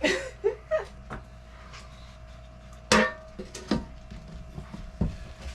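A few scattered knocks and clicks from objects being handled. The loudest comes about three seconds in, over a steady low background hum.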